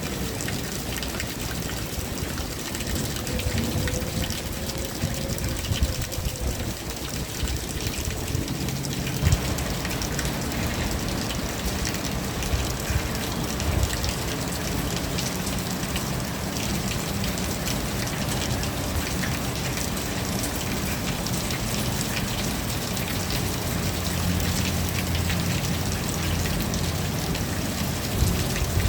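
Steady rain falling, with many small drops tapping on surfaces over a low rumble. A faint wavering tone sits under the rain in the first few seconds.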